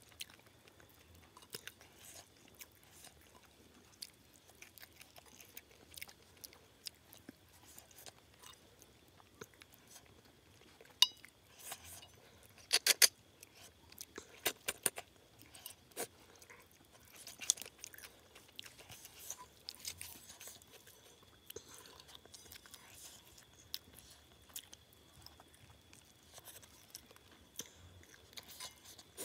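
Quiet close-up chewing and crunching of rice and snails eaten by hand, with scattered sharp clicks that come thickest in the middle.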